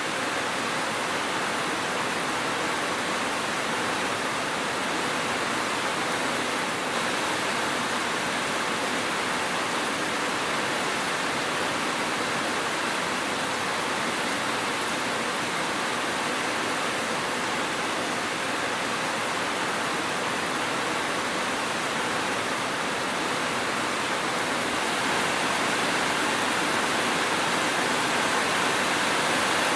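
Steady, heavy rain falling as a dense, even hiss with no distinct drops or thunder, growing a little louder in the last few seconds.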